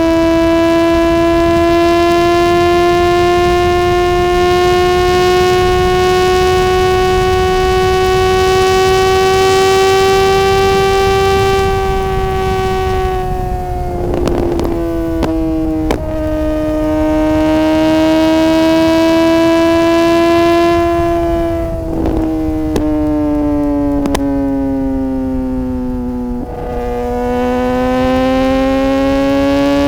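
Suzuki GSX-R600's inline-four engine howling at high revs under way, its pitch holding and slowly climbing. Around the middle and again near the end the pitch drops in several quick steps with brief cuts, typical of clutchless upshifts through the quickshifter.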